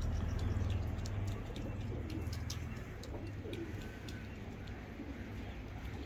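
Birds calling: many short, high chirps, with a low cooing call a little past the middle, over a steady low hum that fades after about a second and a half.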